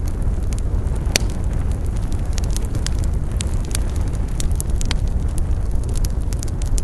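Wood campfire burning, crackling with many sharp irregular pops over a steady low rumble, with one louder pop about a second in.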